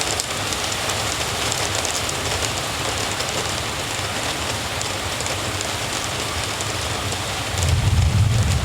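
Steady rain falling, an even hiss. A low rumble swells in near the end.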